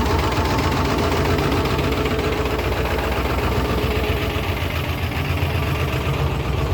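Ford 7.3 L Power Stroke V8 turbo-diesel idling steadily, still warming up shortly after a cold start in 15-degree cold.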